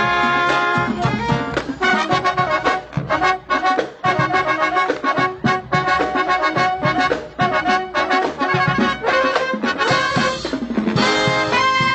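Live college big band playing up-tempo swing, with trumpets and trombones carrying the tune over a drum kit beat.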